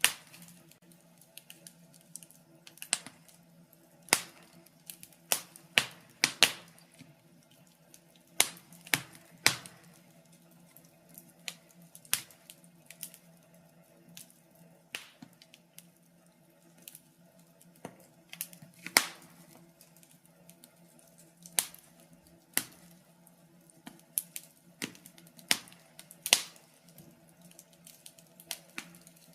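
Wood fire crackling: irregular sharp pops and snaps, one to three a second, some louder than others, over a faint steady hum.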